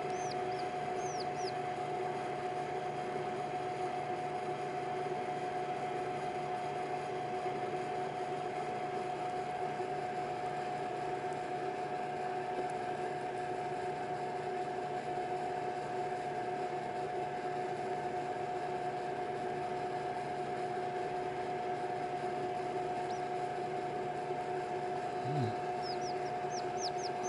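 A steady, even hum throughout, with faint high peeping from newly hatched chicks: a few peeps about a second in and a quick run of them near the end.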